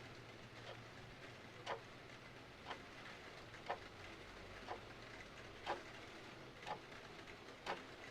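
A clock ticking about once a second, with sharp, even ticks, over a steady soft hiss of rain.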